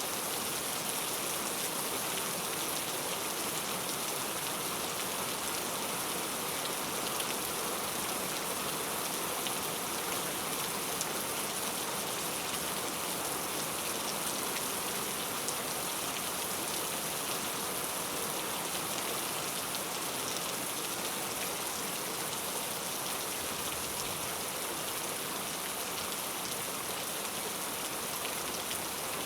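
Heavy rain falling steadily, a dense even hiss with faint scattered drop clicks.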